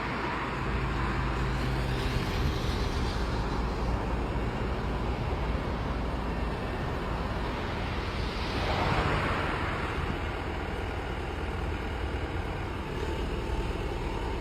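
Excavator engine running steadily with a low hum. A hissing sound swells up briefly about two seconds in and again, louder, about nine seconds in.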